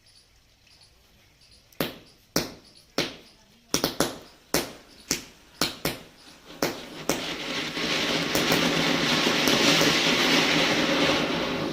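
Matchstick heads flaring one after another in a chain, about a dozen sharp pops over five seconds, then a Diwali firework catching and hissing steadily for about four seconds before it cuts off suddenly.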